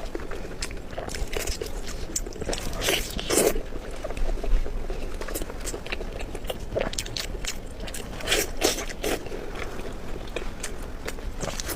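A person biting and chewing pork belly close to the microphone, with irregular wet mouth clicks and smacks.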